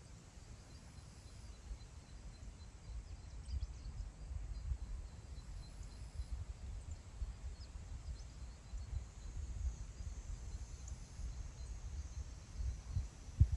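Wind gusting across open grassland and buffeting the microphone: a low rumble that rises and falls unevenly, with the strongest gust near the end.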